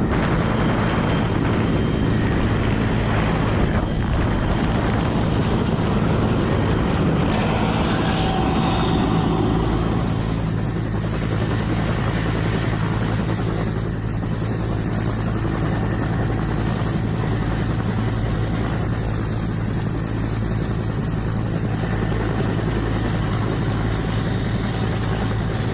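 Helicopter running steadily, a constant deep rotor and engine drone; about a third of the way in a thin high-pitched whine joins it and holds.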